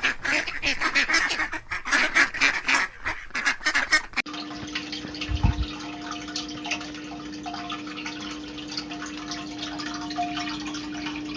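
An animal's rapid, harsh calls repeated several times a second for about four seconds, then an abrupt cut to a steady low hum with one dull thud.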